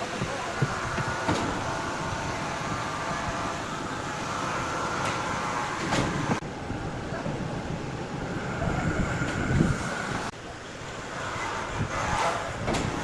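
Large sawmill wood saw and its machinery running: a steady mechanical rumble with a faint whine that comes and goes and a few sharp knocks.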